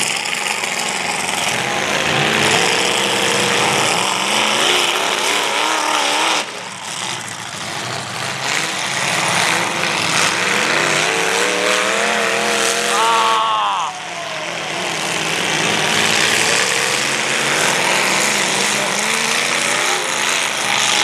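Several demolition derby cars' engines running and revving hard, their pitch wavering up and down, with one sharp rising rev about thirteen seconds in.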